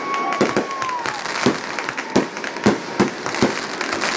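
Aerial fireworks bursting overhead: sharp bangs about twice a second over a continuous crackle. A steady high whistle bends down and fades about a second in.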